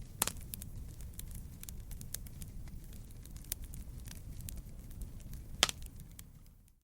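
Wood fire crackling in a fireplace: irregular sharp pops and snaps, one louder pop about two-thirds of the way through, over a steady low rumble of the flames. The sound dips almost to silence right at the end.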